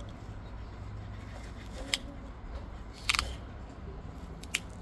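Obsidian being pressure-flaked: sharp glassy clicks as flakes snap off the edge of the point, one about two seconds in, a quick double snap a second later, and one more near the end.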